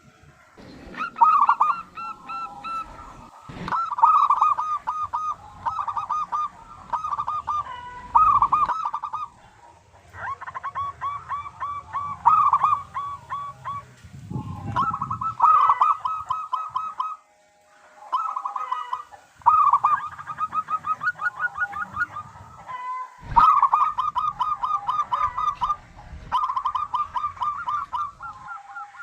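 Zebra dove (perkutut) cooing: phrases of quick repeated stuttering notes, one after another with short breaks between them.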